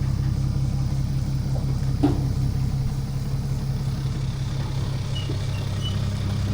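An engine idling steadily with an even low throb. From about five seconds in, faint short high-pitched chirps sound over it.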